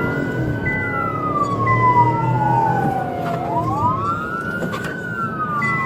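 Police car sirens wailing: two siren tones slightly out of step, each rising quickly and then falling slowly, about one cycle every four seconds. Under them runs the steady rumble of a vehicle on the road, and a high steady beep comes and goes.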